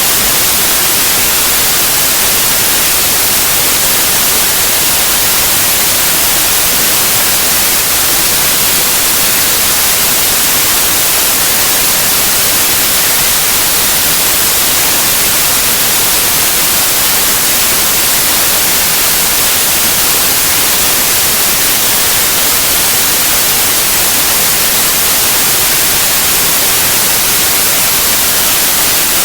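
Continuous white noise: an even, steady hiss with no changes.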